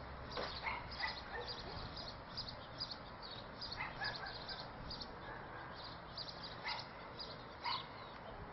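Faint low rumble of the departing Union Pacific SD70M train, fading away in the first second. Over it, a steady run of short high chirps several times a second, with a few sharper short animal calls now and then.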